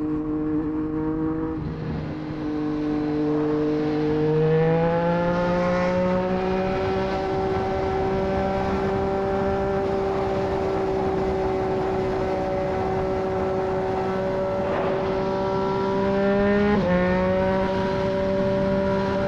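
Triumph Street Triple 765 RS's inline three-cylinder engine through a Racefit Growler full exhaust system, pulling up in pitch about four seconds in and then cruising at steady revs. The pitch shifts abruptly once near the end, over a steady rush of wind.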